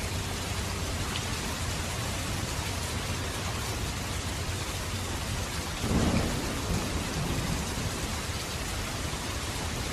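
Steady rain falling, with a short low rumble of thunder about six seconds in.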